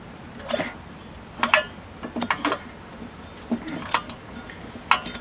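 7hp Tecumseh small engine being cranked by its recoil pull-starter in several short, sharp pulls, roughly one a second, without firing: the ignition gives no spark.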